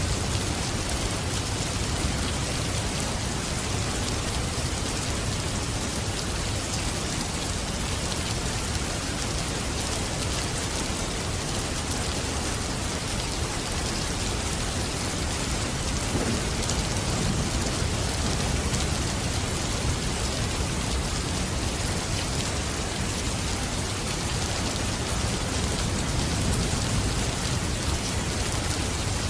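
Steady heavy rain falling, an even hiss, with low rumbles of distant thunder swelling up now and then.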